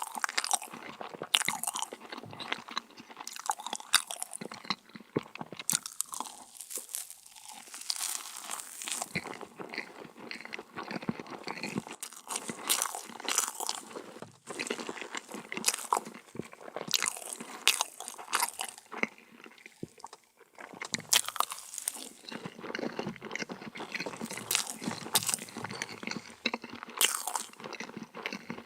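Close-miked eating of a crunchy dessert: a person biting and chewing, with many sharp, irregular crackling crunches.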